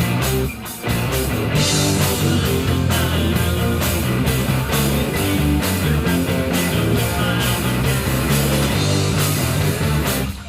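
Live rock band playing loudly: electric guitars, bass guitar and drums, with a brief stop in the playing just after the start before the band comes back in.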